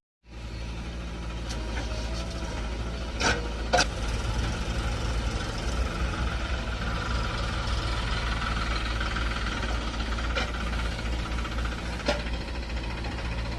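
Heavy diesel engine running steadily, with a few sharp metallic knocks, two about three and a half seconds in and one near the end.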